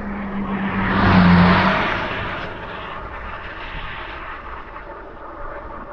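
A motor vehicle passing close by, rising to its loudest about a second in and fading over the next second or so, over steady road and wind noise.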